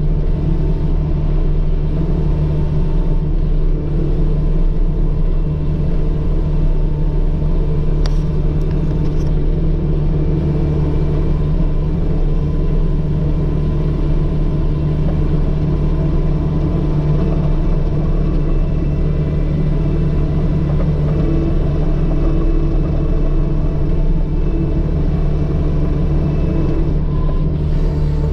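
Diesel engine of a farm loader machine running steadily under load while working ice, with a short click about eight seconds in.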